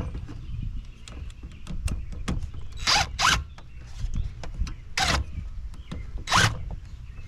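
Four short, sharp rasping scrapes, two close together about three seconds in and two more spaced out later, with light clicks and knocks between them, from hand work with tools on a scrap dishwasher's metal parts.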